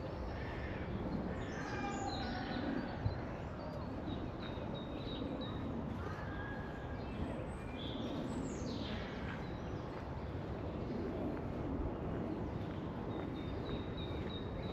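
Small birds chirping and calling over a steady outdoor background noise, with runs of short high repeated chirps and one quick downward-sweeping call about eight seconds in.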